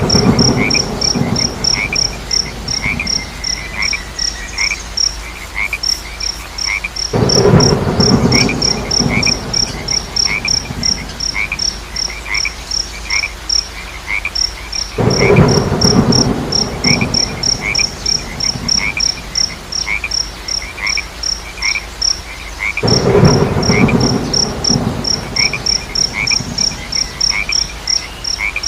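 Countryside nature soundscape: a cricket chirping in rapid, even pulses over light rain, with a lower chirp repeating about once a second. Every eight seconds or so a loud burst of low frog croaking rises for a few seconds and fades.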